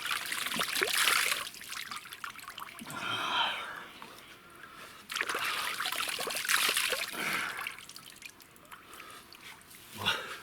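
Cold stream water splashed by hand onto the face in two bouts, with short gasps at the cold, one about three seconds in and another near the end.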